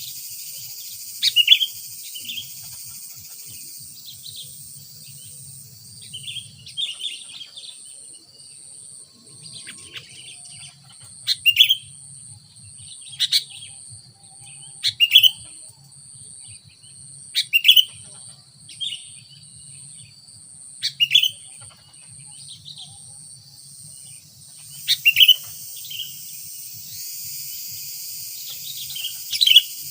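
Sooty-headed bulbul (kutilang) calling: short, loud chirping phrases repeated every two to four seconds. A steady high-pitched insect drone runs underneath.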